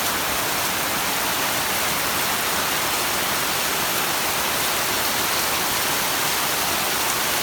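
Heavy tropical downpour: steady, dense rain hissing down.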